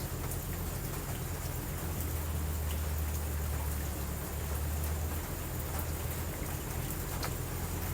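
Steady rain, with a low rumble of distant thunder that swells between about two and five seconds in.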